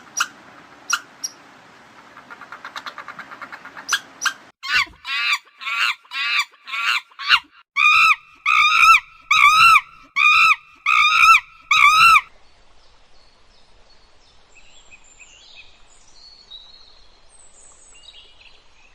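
A bird calling loudly over and over, a call that arches up and down in pitch about every half second, stopping about twelve seconds in. It is preceded by a few sharp clicks and a fast rattling, and followed by faint high chirping.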